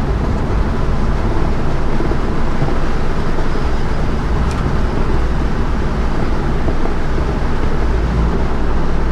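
Holden HK car under way on the road: steady engine and road noise, with one short click about four and a half seconds in.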